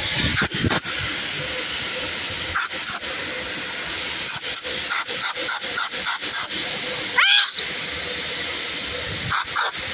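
Car-wash pressure-washer spray: a steady high hiss with many short sharp clicks or knocks over it, and a brief rising squeak about seven seconds in.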